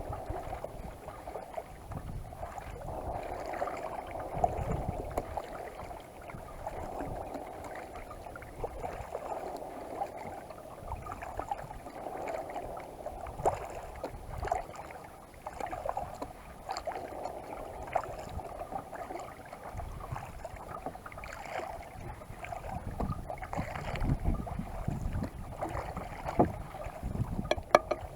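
Kayak paddling: paddle blades dipping and water washing against the kayak hull, with gusts of wind on the microphone.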